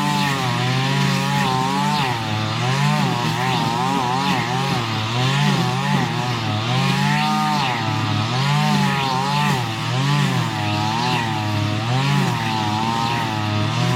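String trimmer's small two-stroke engine running at high throttle while cutting weeds and grass, its pitch rising and falling about once a second as the line bogs in the growth and frees up.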